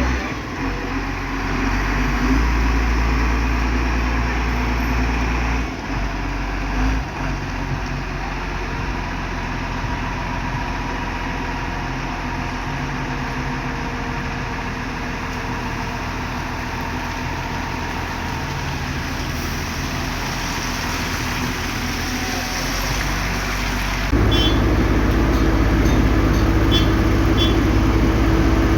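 Heavy road-construction machinery with its engine running steadily. About 24 seconds in, a nearer machine's engine takes over, louder and with a higher-pitched drone, accompanied by faint ticking.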